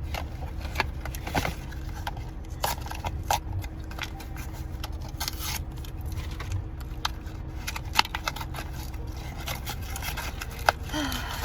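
Small plastic toy packaging being handled and opened by hand: irregular clicks, scrapes and rustles, over a steady low hum.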